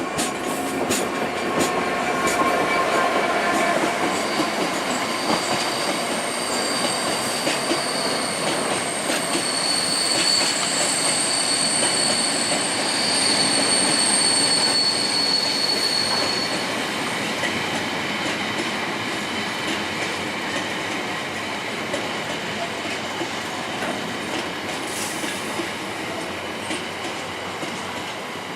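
London Underground 1960 Tube Stock track recording train running through the station, its wheels clicking over rail joints. A high-pitched wheel squeal on the rails runs from about five seconds in until about two-thirds of the way through, and the running noise eases off near the end.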